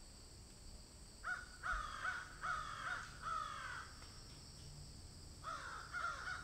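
A bird calling over and over outdoors: a run of short calls about a second in, a pause, then more calls starting near the end.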